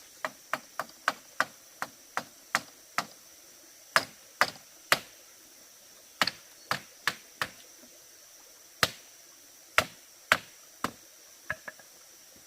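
A hand tool striking bamboo in a series of sharp blows, about twenty in an uneven rhythm, quick at first and more spaced out later, with a short pause midway.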